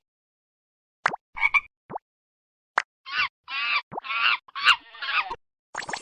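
A frog croaking: a quick run of about six short croaks, with a few sharp pop effects before and between them.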